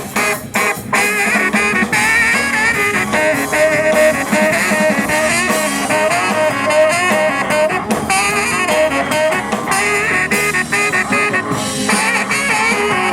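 A live band playing an instrumental passage with no singing.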